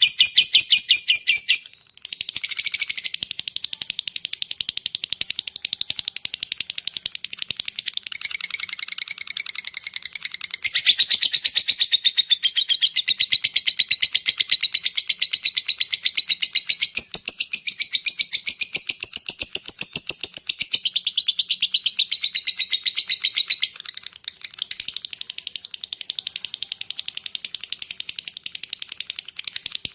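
Lovebird giving its long chattering call (ngekek panjang): a rapid, almost unbroken stream of sharp, high chirps, pausing briefly about two seconds in.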